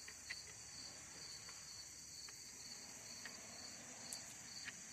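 Crickets chirring steadily in the background, with a few faint light clicks scattered through.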